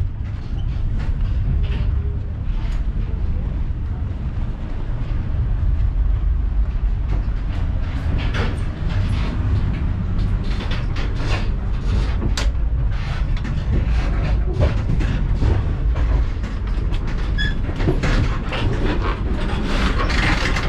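Indian Pacific passenger carriage in motion, heard from inside: a steady low rumble of wheels on rail. From about eight seconds in, rattling and clacking builds up and is densest near the end, as the steel doors between carriages are reached.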